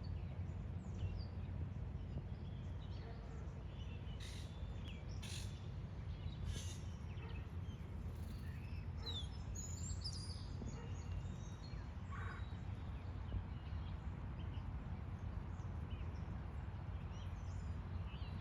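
Steady low outdoor rumble with scattered short bird chirps and calls, clustered in the first half.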